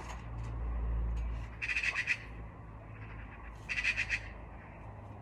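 Trampoline springs squeaking in short rasping bursts, twice, about two seconds apart, as with each bounce on the mat; a low rumble underneath.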